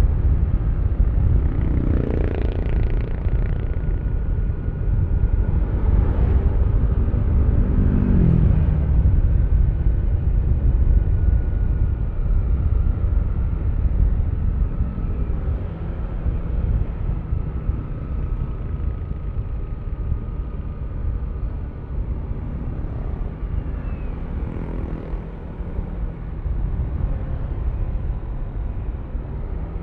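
Yamaha Aerox V3 155 cc single-cylinder scooter under way, its engine and CVT running under heavy wind rumble on the microphone. The engine note rises and falls a few times in the first ten seconds, then settles and eases slightly.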